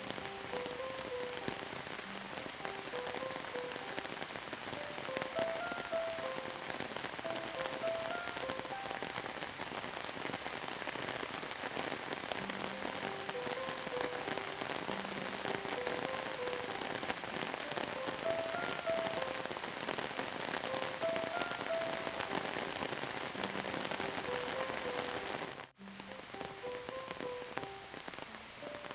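Steady rain falling, an even patter, with a soft, slow melody of sustained notes mixed quietly underneath. The sound cuts out for a split second near the end.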